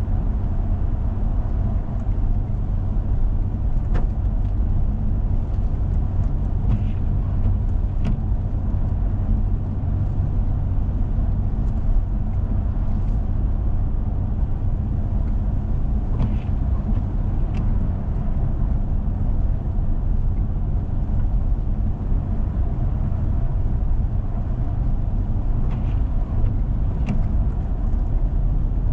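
Steady low rumble of a four-wheel-drive vehicle driving on a snowy road: engine and tyre noise, with a few faint clicks and knocks.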